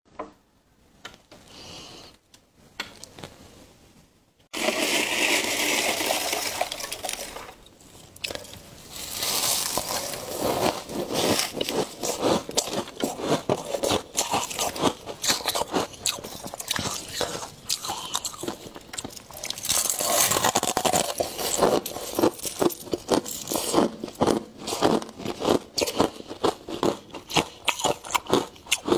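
Ice and frost crunching: a few seconds of harsh scraping begin about four seconds in, followed by a long run of rapid, irregular crunches.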